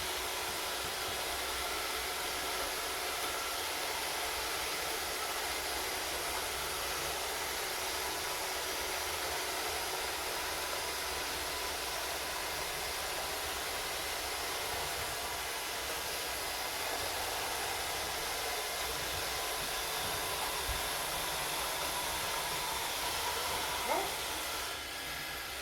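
Three Roomba robot vacuums running at once, a steady whirring of their vacuum motors and brushes. A short rising tone sounds near the end.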